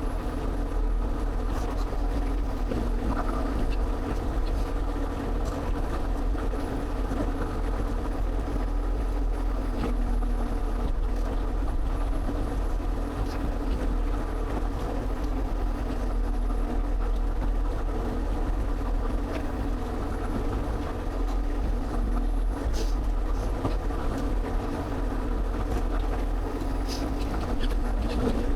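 Excavator's diesel engine running steadily, a constant low drone with a few faint clicks and knocks over it.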